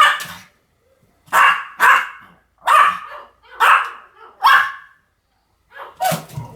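Pomeranian barking over and over, single barks about one a second. After a short pause, a quick cluster of sharp barks and knocks comes near the end.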